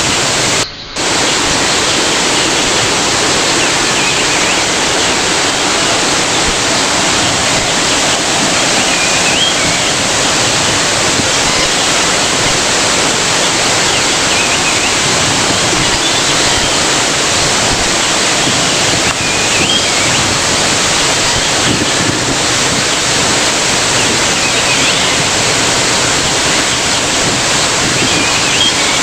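Waterfall: water falling and rushing in a loud, steady roar, with a brief dip in level about a second in.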